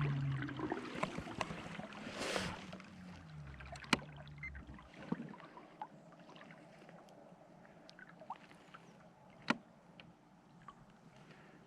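Kayak's electric motor running with a low hum over water noise, dying away about four to five seconds in. Faint water sounds follow, with two sharp knocks, one about four seconds in and one near nine and a half seconds.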